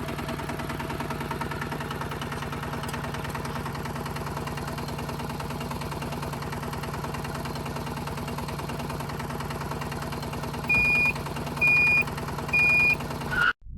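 Small motor of a DIY mini tractor running steadily with a rapid, even pulse. Near the end come three short, high beeps about a second apart.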